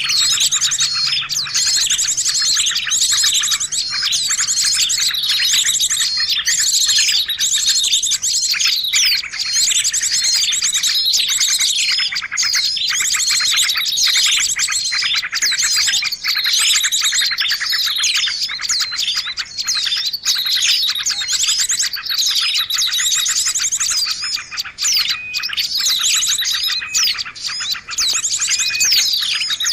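A dense, unbroken chorus of many small birds chirping and twittering at once, with rapid trills and repeated sharp notes overlapping. It is a noisy mixed-bird lure recording ('suara ribut pikat'), used to draw birds in.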